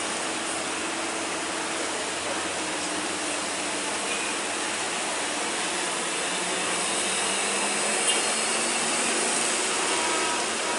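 Heavy rain falling as a steady hiss, mixed with the engine of a diesel truck climbing past on the wet road; the engine grows slightly louder in the second half.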